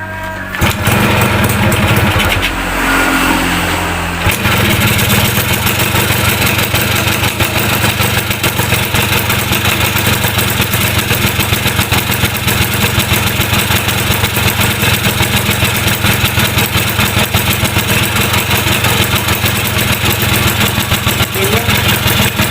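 Freshly rebuilt Yamaha F1ZR two-stroke motorcycle engine, bored to 116cc, catching about a second in on its first start after reassembly. It changes note after about four seconds and then runs steadily with rapid, even firing.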